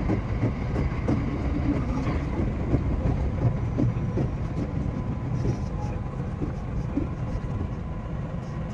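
JR West 227 series electric train running along the line, heard from the front of the train: a steady rumble of wheels on rail with scattered clicks over rail joints and a faint steady whine.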